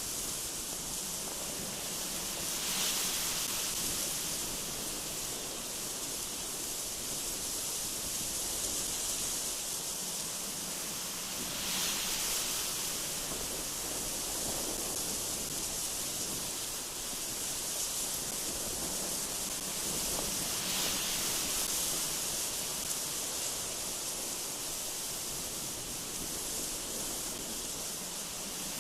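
Strong, gusty wind blowing through trees: a steady high hiss that swells with a gust three times, about nine seconds apart.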